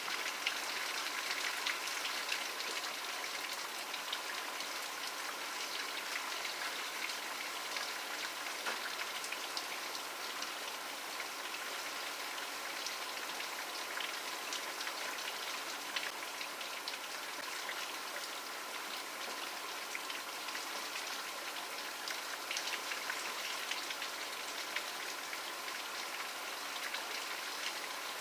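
Steady rainfall, a continuous hiss with many small drops pattering on a surface.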